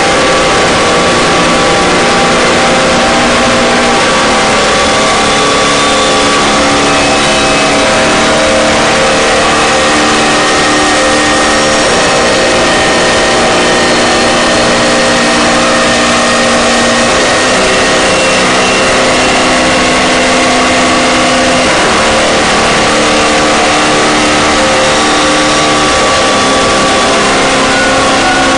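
Harsh noise drone music: a loud, unbroken wall of distorted noise with sustained droning notes underneath that shift pitch every few seconds.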